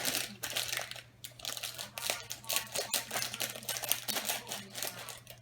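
Plastic Lego parts bag being crinkled and pulled open by hand, an irregular run of crackles and clicks.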